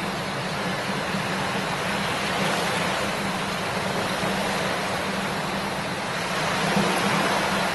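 Shallow river flowing over stones, a steady rushing babble of water.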